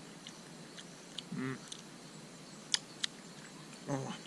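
A man chewing a mouthful of cooked mangrove snail, with a few small mouth clicks and two short closed-mouth hums of approval, about a second and a half in and near the end.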